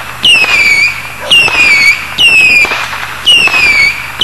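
Fireworks firing shot after shot, about once a second: each shot is a sudden bang followed by a loud half-second whistle that falls slightly in pitch.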